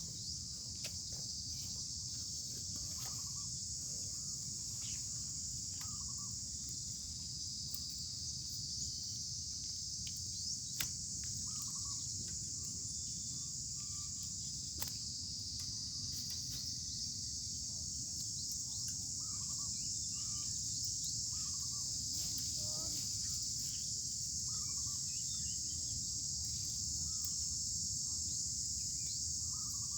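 Steady, high-pitched chorus of insects with a low background rumble underneath and a few faint clicks.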